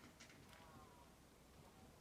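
Near silence: faint background hiss, with a faint, drawn-out high call lasting just over a second in the middle.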